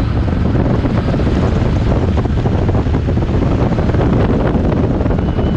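Toyota Hilux LN106's diesel engine running hard under load, a steady deep rumble with heavy wind buffeting on the microphone.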